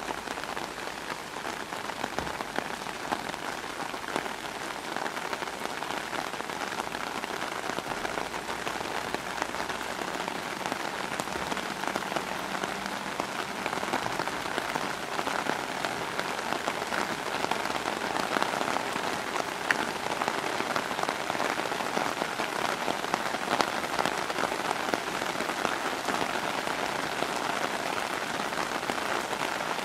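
Steady rain falling on puddles and wet ground, a dense hiss speckled with countless small drop impacts, growing a little louder in the second half.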